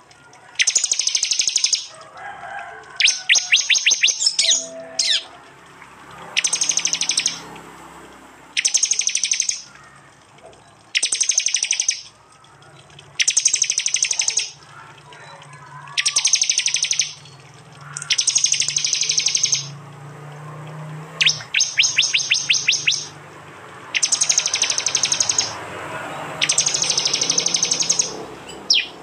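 Prinia (prenjak) calls: loud, shrill bursts of rapid repeated notes, each about a second long, repeating about every two seconds. This is the rapid-fire 'tembakan' call used as training material for songbirds.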